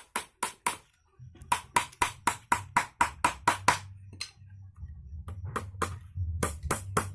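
Rapid series of sharp taps or knocks, about four to five a second. They stop briefly around a second in and thin out for a stretch later, over a low steady hum.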